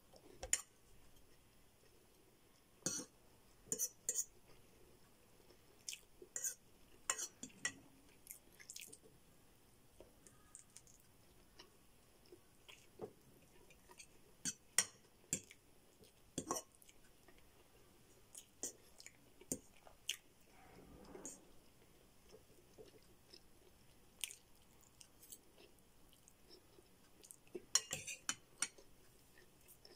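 Close-miked chewing of a mouthful of spaghetti: irregular wet mouth clicks and smacks, with a fork now and then scraping and tapping in the bowl.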